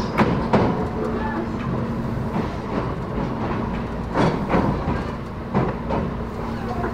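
Tobu 10030 series electric train running sound heard from inside the car, rolling slowly toward its stop. There is a steady rumble and a low hum, and the wheels knock over rail joints in quick pairs, once near the start and again about four seconds in.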